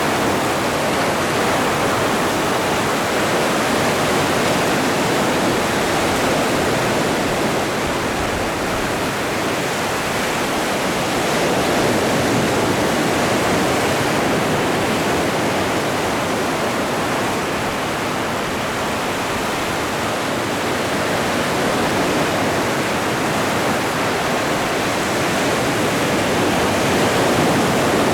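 Atlantic ocean surf: a continuous rushing wash of breaking waves that swells and eases gently every several seconds.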